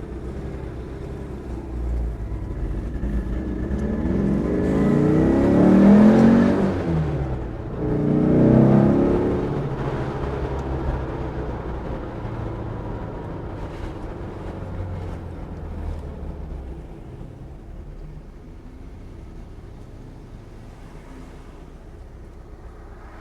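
Air-cooled 2.1-liter flat-four of a 1967 Porsche 912 pulling hard: the revs climb to a peak about six seconds in, drop at a gear change, climb again, then the engine settles into a steady, quieter cruise.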